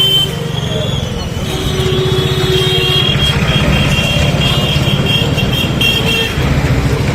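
A motor vehicle engine running, a steady low rumble with a fine even pulse. Over it, a steady high-pitched double tone starts about a second and a half in and stops near the end.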